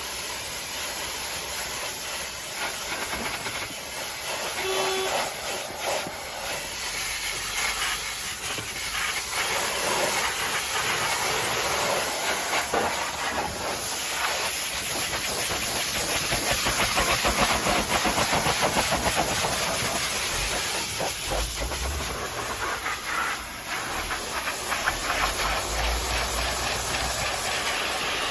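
Pressure washer spraying a jet of high-pressure water: a steady hiss, a little louder in the middle.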